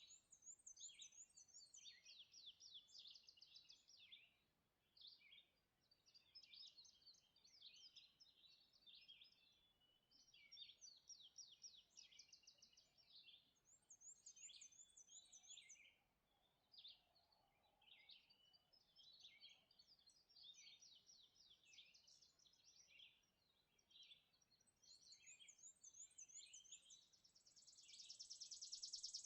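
Faint birdsong: several songbirds singing short overlapping phrases, with a thin, very high trill that comes back three times. Near the end a dense high buzzing grows louder.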